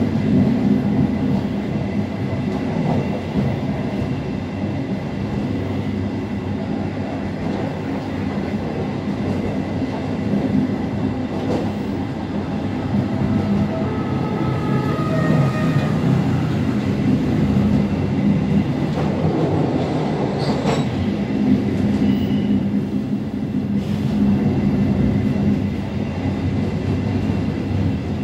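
Passenger train running along the track, a steady rumble of wheels on rails, with a brief faint wheel squeal around the middle and a couple of sharp clicks in the second half.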